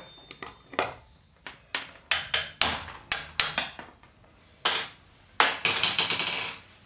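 Hammer striking the metal parts of a Land Rover handbrake mechanism as it is stripped down: a run of sharp blows, some in quick succession, then a harsher rattle lasting about a second near the end.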